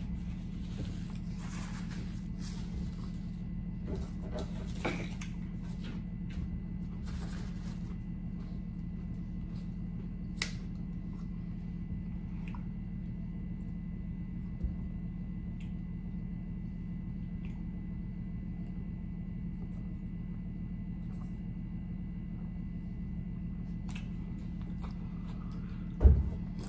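Faint chewing and mouth sounds over a steady low hum, mostly in the first several seconds, with a few small clicks later. Near the end there is a single thump.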